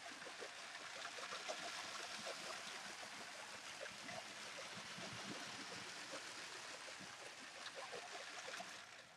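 Motorised LEGO City passenger train running at speed on plastic track: a steady rattling whir of the motor and wheels, with many small clicks. It dies away near the end.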